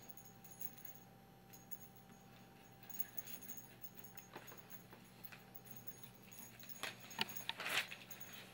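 A small toy bell, knocked about by a cockatiel, jingles and clinks in short bursts. A few light clinks come about three seconds in, and a quicker, louder run of jingling comes near the end.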